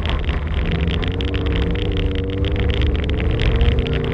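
Toyota GT86's 2.0-litre flat-four boxer engine running under throttle, heard from inside the cabin, its pitch rising slightly about halfway through. Under it is a constant crackle of gravel from the tyres on the loose dirt road.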